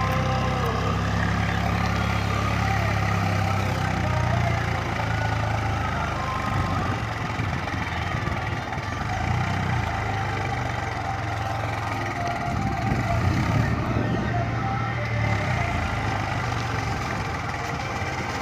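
Swaraj tractor's diesel engine running with a steady low hum, turning rougher and less even after about six seconds.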